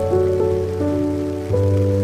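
Soft, slow melodic background music, a few held notes changing over a low bass note that shifts about a second and a half in, with steady rain falling on leaves and surfaces underneath.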